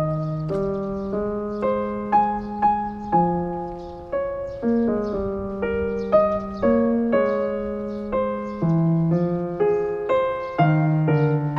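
Background piano music: a gentle melody over sustained chords, each note struck and fading.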